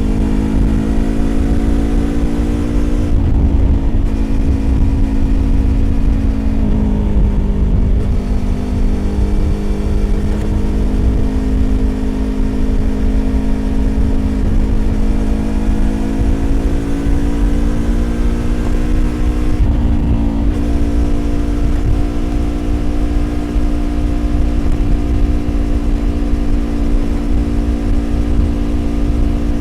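2020 Yamaha YZF-R25's 250 cc parallel-twin engine with an aftermarket Prunus exhaust, running at a steady cruising pitch under way. The note breaks briefly a few seconds in, again near eight seconds, and about two-thirds through, with a low rumble of wind and road under it.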